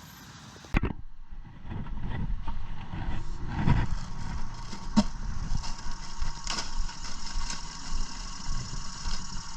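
Traffic noise from passing cars, a low rumble that swells about four seconds in, with scattered clicks and knocks.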